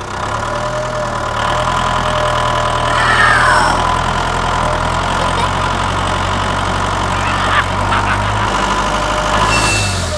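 Engine running steadily at idle with a low, even hum. A short falling squeal sounds about three seconds in, and brief higher glides come near the end.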